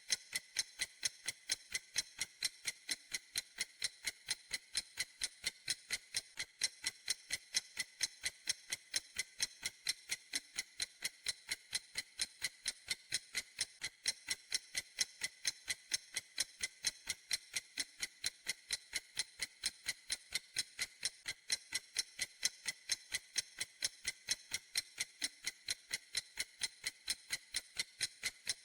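Clock ticking steadily: sharp, high, even ticks a few times a second at an unchanging pace.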